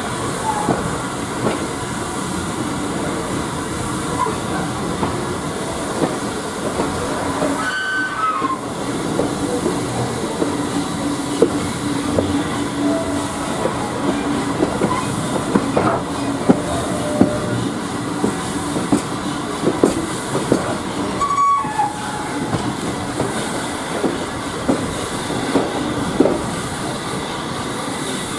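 Railway passenger coach running along the track, a steady rumble with irregular clicks and knocks of wheels over rail joints. Brief high squeals come twice, about 8 and 21 seconds in.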